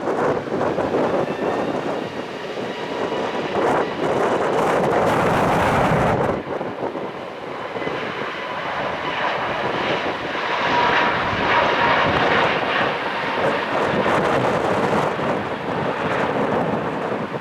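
Airbus A320neo's jet engines running at high thrust: a continuous roar with a faint whine from the engine fans.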